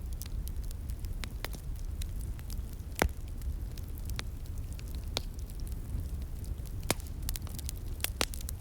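Wood fire crackling and popping with irregular sharp snaps, the loudest about three seconds in and again about seven seconds in, with a quick run of pops near the end, over a steady low rumble of flames and a flowing stream.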